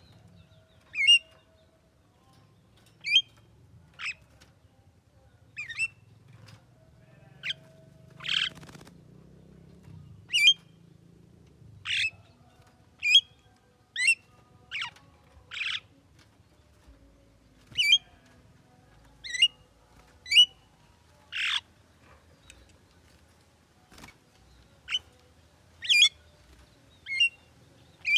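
Javan myna giving about twenty short, sharp calls, spaced roughly a second apart, with a few longer, harsher squawks among them.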